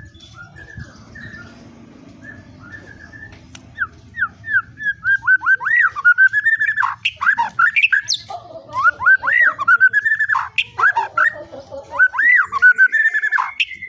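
A songbird singing quick runs of whistled notes that sweep up and down. It starts with faint chirps and turns loud about four seconds in, with a short break partway through.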